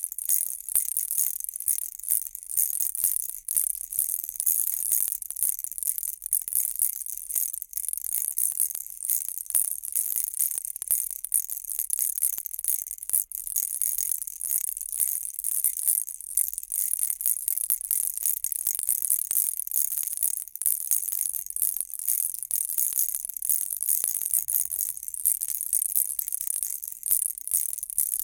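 Baby rattle shaken steadily, a continuous fast, bright clatter of many small clicks with no pause.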